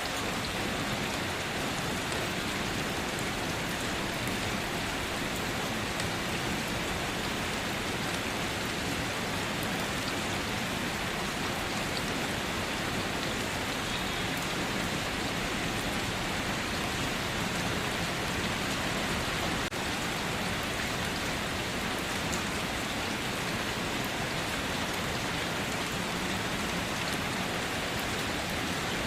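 Steady rain falling, an even hiss of rainfall with many individual drops pattering on surfaces, with no thunder.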